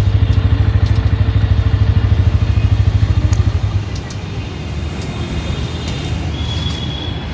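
Bajaj Pulsar N160's single-cylinder engine idling through its exhaust, an even low pulsing beat. About four seconds in, the strong pulsing drops away abruptly, leaving a quieter, steadier rumble.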